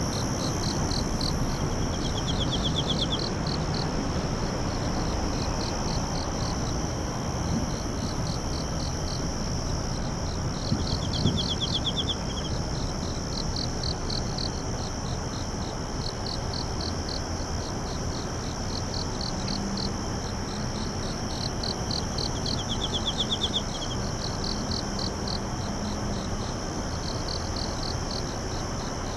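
Night-time chorus of insects: a steady high drone with rapid, evenly pulsed chirping over it, and a short lower trill three times. A steady hiss runs underneath.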